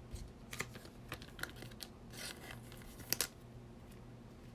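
Baseball trading cards being handled and flipped through: scattered light clicks and rustles, with a sharp double click about three seconds in.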